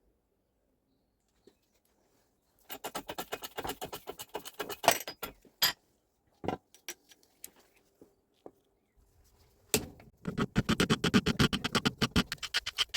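Rapid metallic clicking and rattling in two runs of a few seconds each, with a few single knocks in between: small metal parts being handled during a rotary-hammer strip-down.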